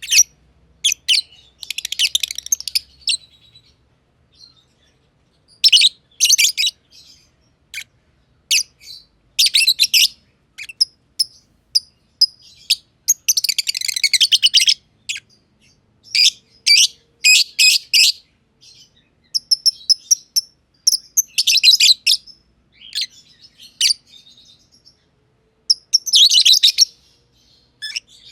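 Masked lovebirds (personata, green and green pied) chirping in quick, high-pitched bouts of rapid calls, broken by short pauses.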